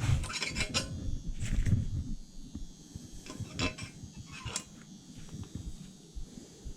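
Scattered metallic clinks and knocks, like hand tools being handled, over low rumbling handling noise that fades about two seconds in.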